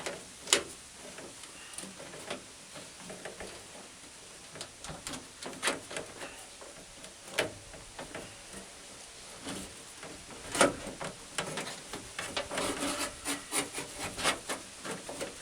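Window track and felt seal being worked into a 1960 Ford F100 door by hand: irregular rubbing and scraping with scattered clicks and knocks, busier in the second half.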